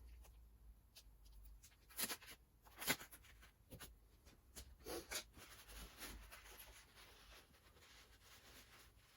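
Near silence with a few faint clicks and light knocks, about two seconds in, again about three seconds in, and a softer pair around five seconds.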